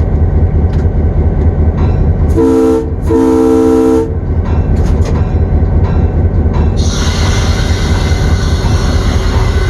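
Diesel locomotive engine running in the cab, with the air horn sounded twice, a short blast and then a longer one, each a chord of several notes. About seven seconds in a loud steady hiss of air starts and holds.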